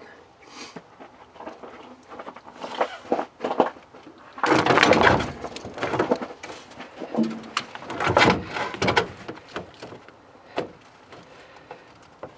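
Knocks, clicks and scraping of a truck battery being set into place under the hood, with a loud scraping clatter about four and a half seconds in and another around eight seconds.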